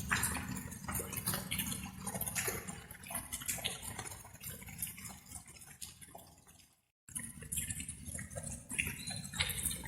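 Light rain: scattered water drops dripping irregularly over a steady low background noise. About seven seconds in, the sound fades to silence and then cuts straight back in.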